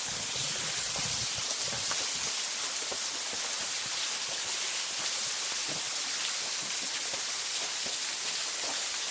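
Small waterfall pouring steadily, a continuous hiss of falling and splashing water.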